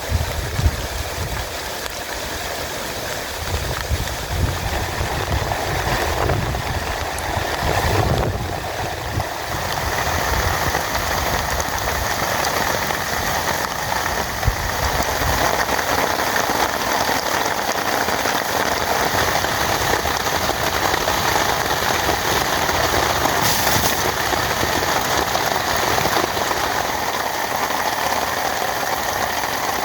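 Heavy rain falling steadily, a dense continuous hiss of drops. Low uneven rumbling runs under it for the first several seconds, then the rain settles into an even sound.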